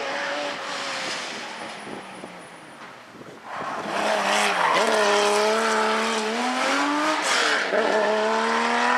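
Porsche rally car engines at speed on a stage. One car's engine fades away, then about three and a half seconds in another arrives suddenly and loud, its revs dropping and climbing again several times as it shifts gears.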